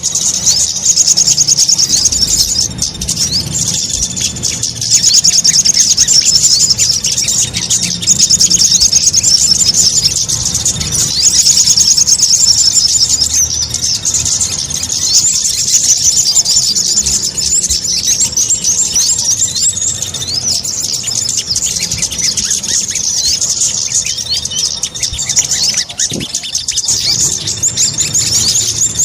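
Spiderhunter (sogok ontong) lure-call recording: fast, continuous high chattering notes in long runs, swelling louder in phrases every few seconds, over a faint low hum.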